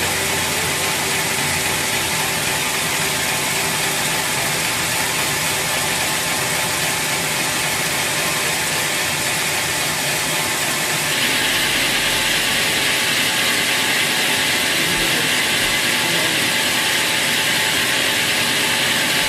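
Sawmill machinery running steadily with a constant mechanical noise; about 11 seconds in it becomes louder and hissier and stays so.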